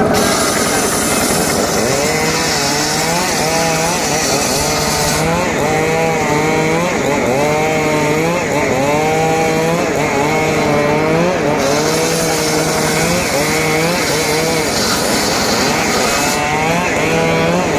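Engine-driven saw cutting wood, its engine pitch dipping under load and recovering about once a second, again and again.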